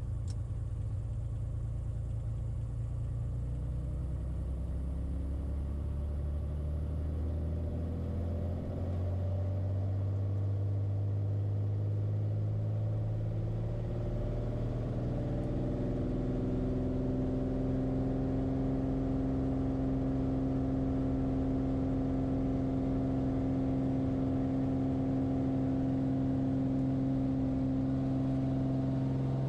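Light aircraft's piston engine and propeller droning, heard from the cockpit; the engine note climbs in pitch over several seconds, about a third of the way in, then holds steady.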